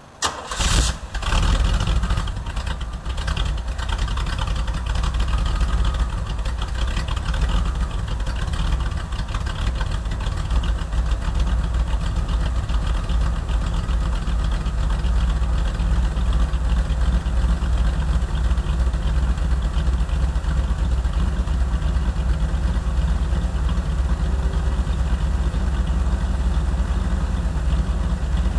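A 1985 Pontiac Firebird Trans Am's throttle-body-injected 350 small-block Chevrolet V8, heard through its catless Y-pipe and MagnaFlow muffler, starts warm, catching at once and flaring briefly. It then settles into a steady idle.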